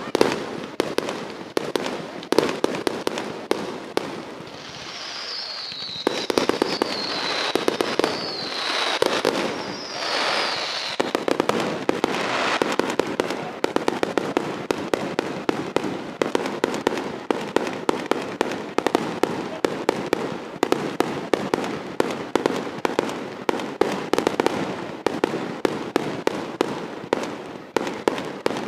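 Fireworks going off in a dense, rapid crackle of pops. From about five seconds in there are four short whistles one after another, each falling in pitch.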